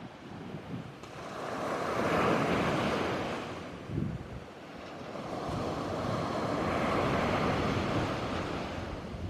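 Sea waves breaking and washing on the shore in two swells, the first peaking about two seconds in and the second around seven seconds, with wind on the microphone.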